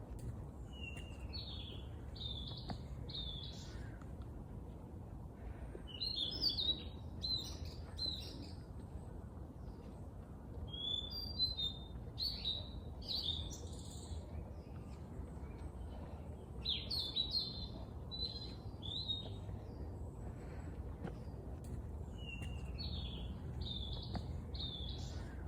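A songbird singing short phrases of quick chirping notes, a phrase about every five seconds, over a steady low rumble.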